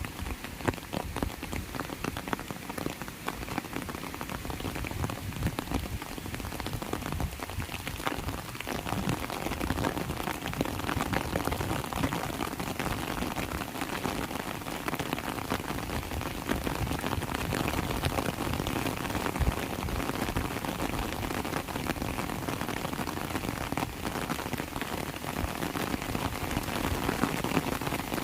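Heavy rain pouring down, a dense steady hiss with many close drop impacts, growing slightly heavier after the first few seconds.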